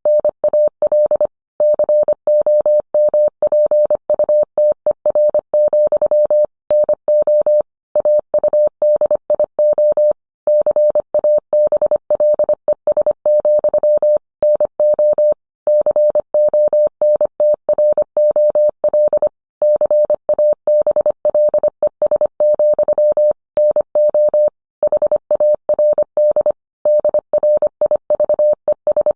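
Morse code sent as a single steady tone of about 600 Hz. It is keyed on and off in quick dots and dashes, with short pauses between groups.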